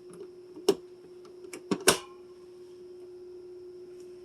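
A few short, sharp clicks and taps, about five in the first two seconds with the loudest near the end of that run, over a steady faint hum.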